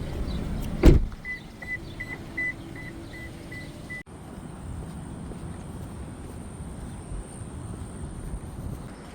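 A car door slamming shut about a second in, followed by the car's warning chime beeping rapidly, about three beeps a second, until it cuts off abruptly near the middle. After that, a steady low rumble.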